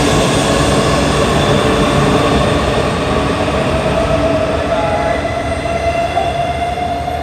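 E4 series Max double-decker Shinkansen pulling out and running past on the platform track: a steady loud rumble of wheels and running gear with a whine that rises in pitch as it picks up speed. The sound eases slightly near the end as the last car goes by.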